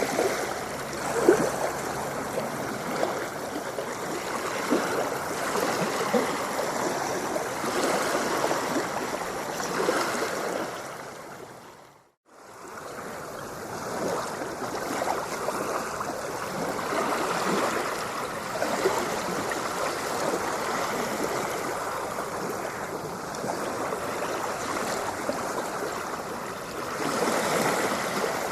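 Ocean surf washing in a steady, continuous rush with small surges. About twelve seconds in it fades out to a moment of silence, then fades straight back up.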